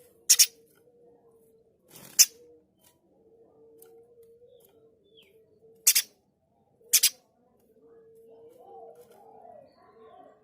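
Pijantung gunung (spiderhunter) giving short, harsh, loud calls: a doubled call near the start, a single one about two seconds in, and two more doubled calls around six and seven seconds. A faint steady low hum runs underneath.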